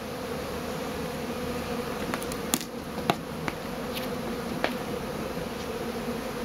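Large honeybee swarm buzzing, a steady hum. Several sharp clicks stand out in the middle of the stretch.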